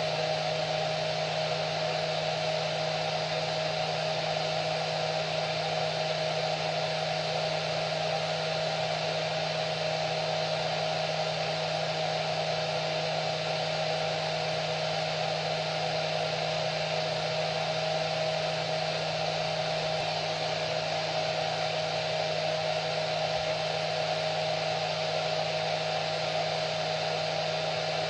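Electric hair dryer running steadily on one setting: a constant rushing blow of air with a steady motor hum.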